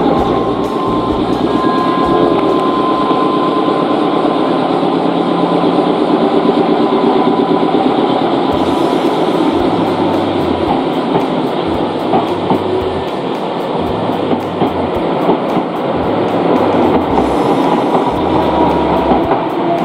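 Nankai Main Line electric commuter train (7100 series) running: a steady, loud rumble of wheels on rail and motor noise, with a faint steady whine in the first few seconds.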